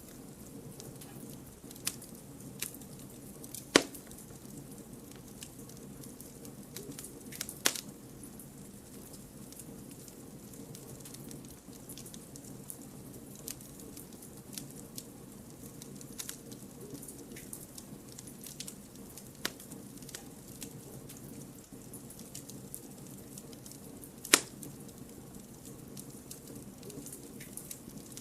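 Firewood burning in a campfire: a steady low rush of flames with scattered small crackles, and three sharp loud pops, two in the first eight seconds and one near the end.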